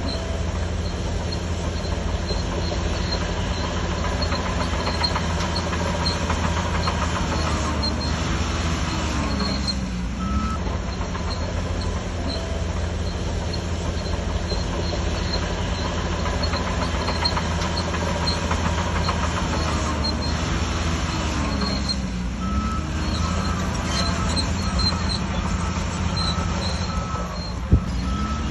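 Bulldozer diesel engine running steadily under load, its pitch sagging and recovering twice as it pushes. A high beep repeats during the last several seconds, and there is a single sharp knock near the end.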